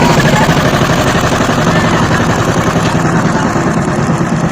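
Power tiller's single-cylinder diesel engine running, with a rapid, steady beat of exhaust knocks. It grows a little quieter in the last second or so.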